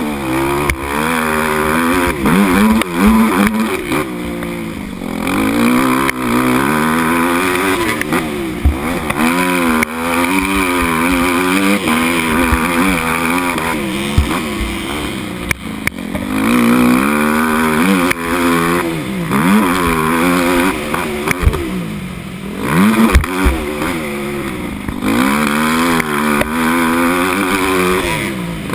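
Motocross bike engine, heard from the rider's camera, revving up and dropping off again and again through gear changes and turns. Short low thumps come in between.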